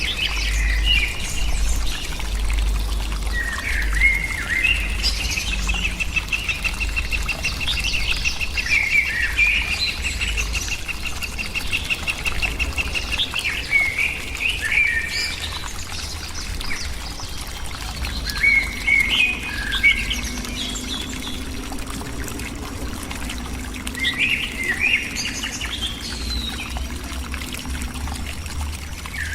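Small birds chirping and calling repeatedly, with one long rapid trill held on a single pitch for several seconds early on. A steady low rumble runs underneath.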